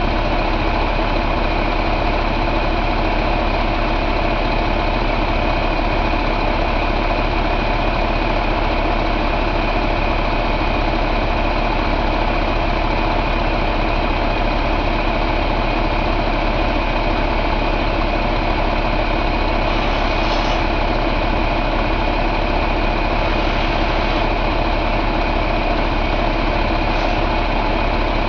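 Cummins ISX15 inline-six diesel engine idling steadily.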